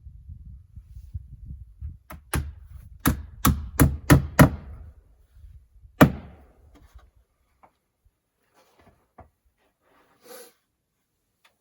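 Hammer blows on wood: a quick run of about seven strikes, then one louder strike a couple of seconds later, over a low rumble that dies away.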